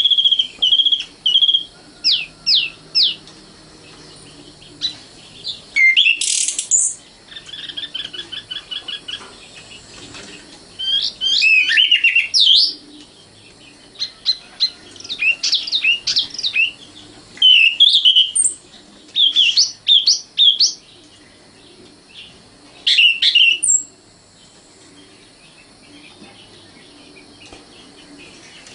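Common nightingale singing: a string of separate phrases of clear whistles, quick up-and-down sweeps and fast repeated-note trills, with short pauses between them and a longer pause near the end.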